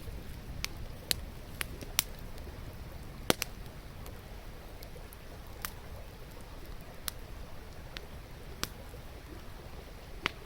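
Wood campfire crackling, with irregular sharp pops and snaps, the loudest about two and three seconds in, over a steady low rush.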